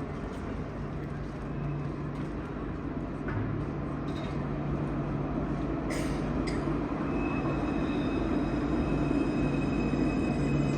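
Electric tram drawing near, its rolling noise and motor hum growing steadily louder, with a steady high whine joining in about two-thirds of the way through.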